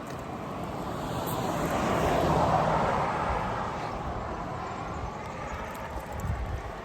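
A vehicle passing by: a rushing noise that builds to its loudest about two and a half seconds in and then slowly fades.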